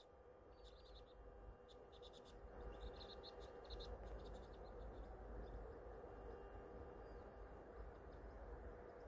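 Faint chirping of small birds: several short, quick twittering calls in the first four seconds, over a steady low rumble.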